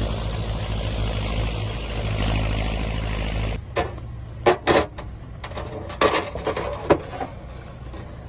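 A vehicle engine runs with a steady rumble and low hum, then cuts off abruptly about three and a half seconds in. What follows is quieter, with a few short, sharp sounds.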